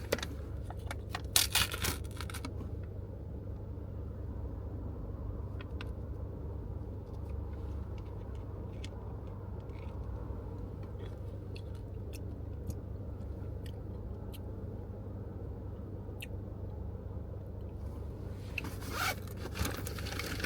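Steady low rumble of a car interior, with brief rustling and scraping of something being handled in the first couple of seconds and again near the end, and scattered small clicks.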